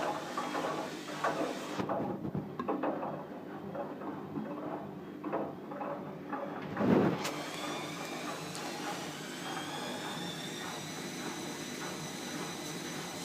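Bosch washing machine in the last minutes of its programme: irregular knocks and clatter from the drum, a louder knock about seven seconds in, then a steady hum with a whine slowly rising in pitch as the drum speeds up.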